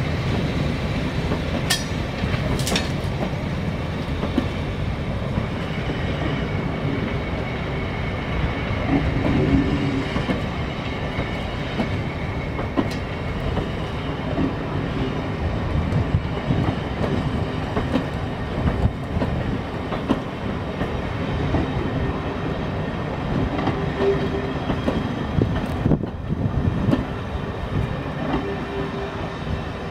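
Rake of Mark 2 coaches, hauled by a Class 08 diesel shunter, rolling slowly past as a steady rumble, with the wheels clicking irregularly over rail joints.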